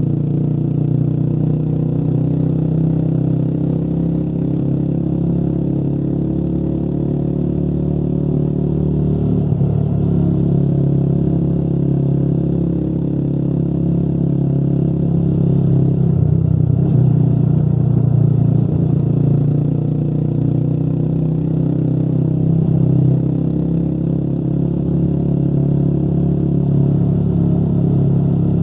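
Motorcycle engine running steadily under way, its note rising and falling, with two brief dips in the engine sound, about a third of the way in and again just past halfway.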